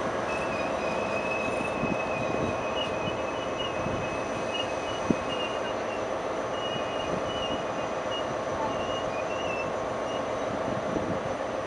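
ICE high-speed train's passenger cars rolling slowly past, with a steady rumble of wheels on rail and an on-and-off high wheel squeal; one sharp click about five seconds in.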